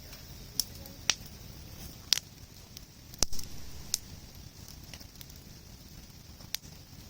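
Wood campfire burning, with a low steady rush and sharp, irregular crackles and pops about once a second, the loudest a little after three seconds in.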